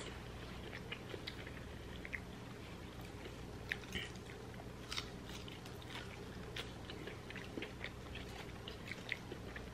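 People chewing and biting french fries, with soft, irregular small clicks of mouth sounds.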